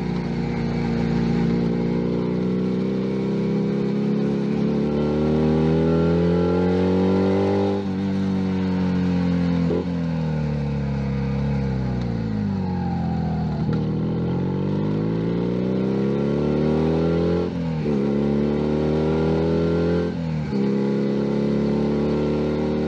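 Junak M11 Cafe's 125 cc single-cylinder engine pulling up through the revs, with short breaks at several gear changes. In the middle the revs fall away steadily and then climb again.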